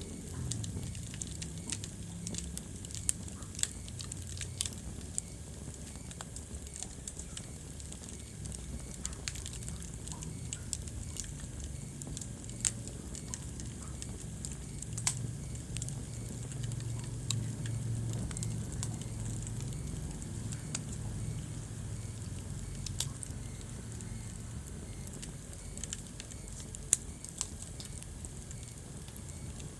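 Wood fire burning in a fireplace, crackling steadily with irregular sharp pops, a few much louder than the rest, over a low steady rumble.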